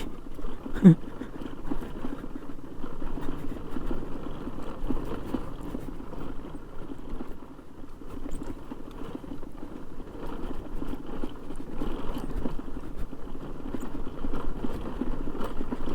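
Motorcycle engine running steadily while the bike is ridden over a rough, bumpy dirt track, with light irregular knocks from the jolting.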